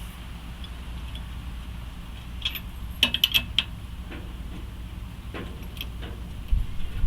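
Light metallic clinks and rattles, a quick cluster of them about three seconds in and a few single clicks later, over a steady low hum.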